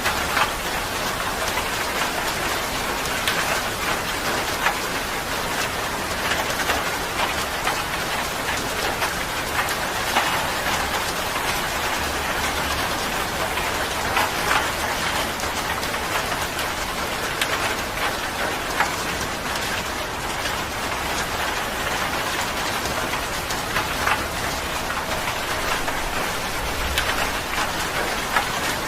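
Steady rain falling on a surface, a continuous hiss with many individual drops pattering through it.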